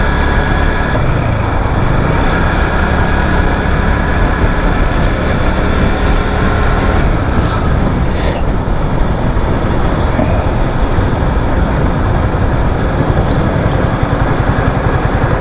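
Motorcycle engine running as the bike rides slowly, under a heavy rumble of wind on the microphone. Toward the end the engine settles into an even idle pulse as the bike comes to a stop.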